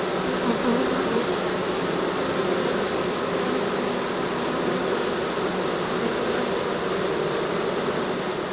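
Many honeybees buzzing in a steady, dense hum from an opened hive.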